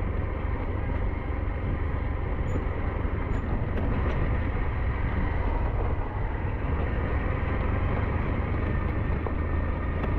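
SYM NHT 200 motorcycle engine running steadily under way, with steady road and wind noise.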